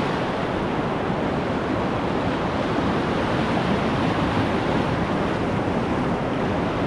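Whitewater of the Hood River rushing steadily through rapids, an even noise with no breaks.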